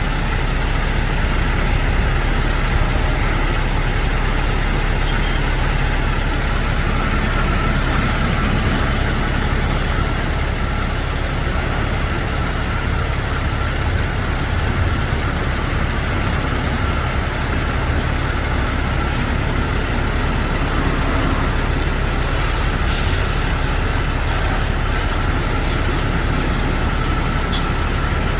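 Heavy diesel truck engine idling steadily, a constant low rumble under a wash of even noise.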